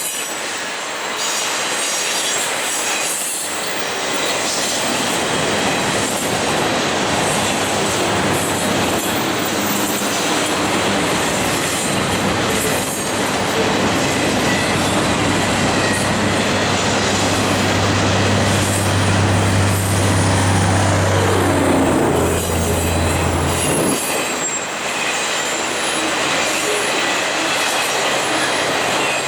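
Union Pacific double-stack freight cars rolling past at close range: steady, loud rumble and clatter of steel wheels on rail, with wheel squeal.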